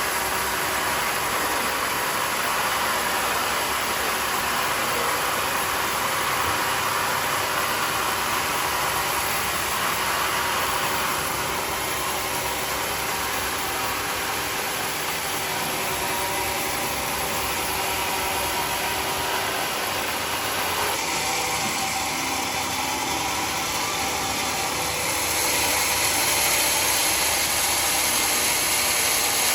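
Homemade sawmill running while cutting mahogany: a continuous mechanical noise of motor and saw whose tone shifts about ten seconds in and again about twenty seconds in, growing louder near the end.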